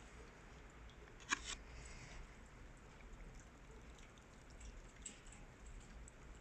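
Near-quiet room tone with a low hum and faint scattered ticks, broken by one sharp double click about a second and a half in.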